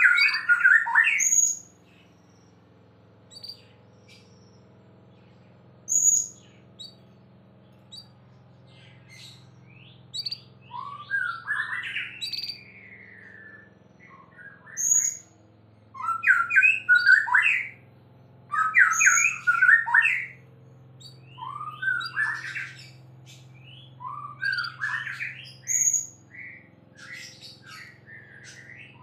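White-rumped shama (murai batu) singing in bursts of whistled phrases and quick chattering notes, mixed with short high, sharp notes, with pauses of a few seconds between bursts. A faint steady hum lies underneath.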